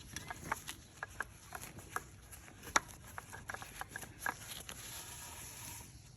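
Miniature donkey crunching carrots: a run of irregular sharp crunches, a few a second.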